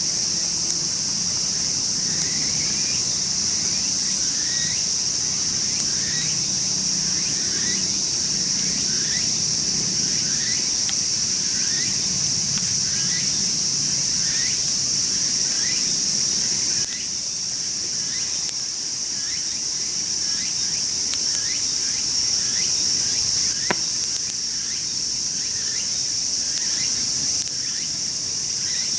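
Steady, high-pitched chorus of insects, over which a short rising chirp repeats about once a second. There is a single sharp pop roughly three-quarters of the way through.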